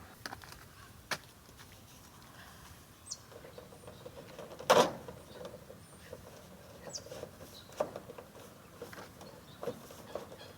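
Scattered light knocks and clicks with one louder knock about halfway through, and two short high bird chirps.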